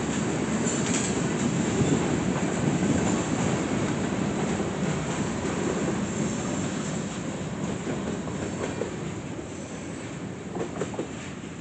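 Freight cars rolling past on the rails: a steady rumble and clatter of steel wheels that fades as the end of the train moves away, with a couple of knocks near the end.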